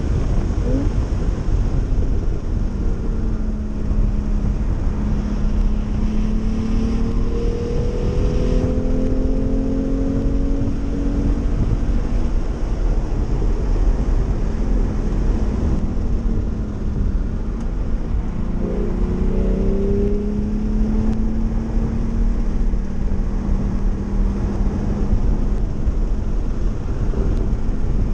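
Porsche 911 flat-six engine at speed, heard from inside the cabin, its pitch climbing and falling several times as it accelerates and shifts. A heavy low rumble of road and wind noise runs underneath.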